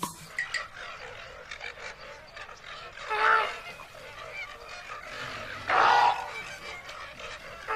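Animal calls: two loud pitched calls, one about three seconds in and a longer one about six seconds in, over a steady background.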